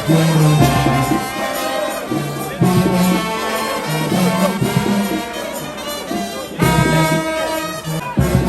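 Brass band music: horns playing held notes over a low bass line.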